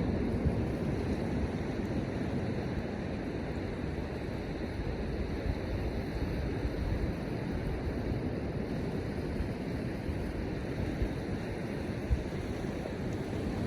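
Wind buffeting the microphone over the steady wash of surf on the shore, with a couple of brief thumps from gusts.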